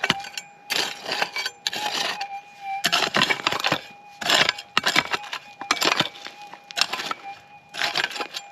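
A digging pick scraping and chopping into gravelly desert dirt in repeated strokes, about one or two a second, over a faint steady tone from the gold detector's threshold.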